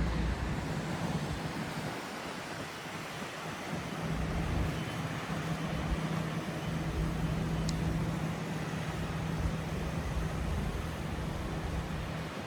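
City street traffic: a vehicle engine runs with a steady low hum over a wash of traffic noise, the hum fading near the end.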